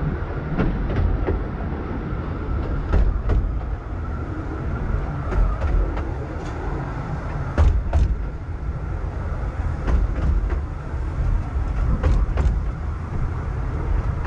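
Bure Valley Railway narrow-gauge train running along the track with a steady low rumble. Sharp clicks come in pairs every few seconds as the wheels pass over rail joints.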